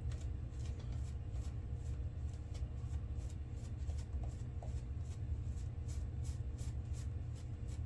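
Safety razor scraping through lathered stubble in quick short strokes, about three or four a second, a crisp scratch on each stroke.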